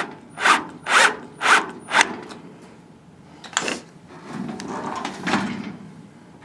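Screwdriver driving a self-tapping caster screw into a thin sheet-metal cabinet base, cutting its own thread. It turns in five rough, grating strokes about two a second, then a click, then a longer grinding turn.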